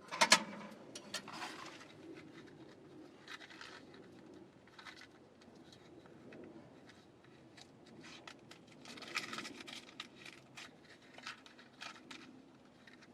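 Handling noises: scattered light clicks, knocks and rustling, with a sharp knock right at the start and a denser burst of rustling about nine seconds in.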